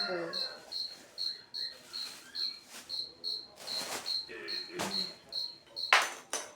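A cricket chirping steadily, short high chirps about two and a half times a second, with some clatter and rustling of things being handled.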